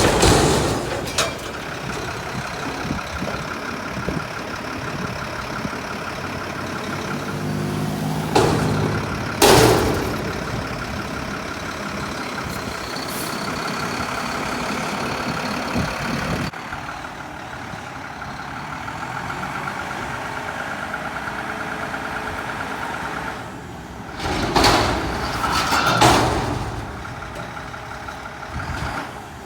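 Mack front-loader garbage truck with a Heil body, its engine running steadily and revving up about 8 seconds in, with two loud bangs around 8 and 9 seconds in and two more loud swells of noise near the end.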